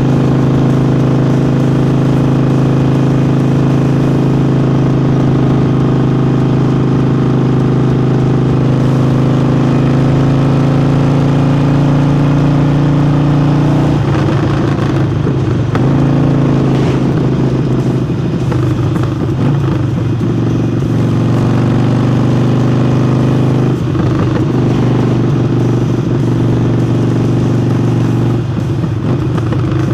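Harley-Davidson Forty-Eight's air-cooled V-twin engine, fitted with a new air intake, running while riding. It holds a steady note that climbs slowly for the first half, then turns uneven, with the revs dropping and rising again several times.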